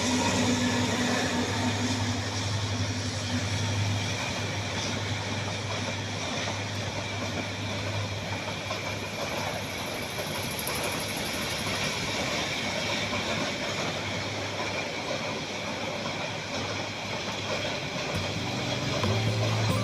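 A train running, a steady rumbling noise with a low engine hum that breaks off briefly near the end.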